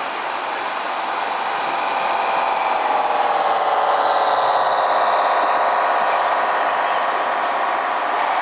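Small electric motor and gearbox of a radio-controlled construction model whining steadily under load, its pitch wavering slightly.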